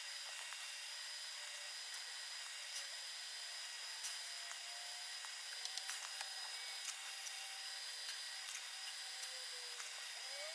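Faint steady hiss with scattered light ticks, as a sand and crushed-garnet mix is sprinkled by hand onto diluted matte medium.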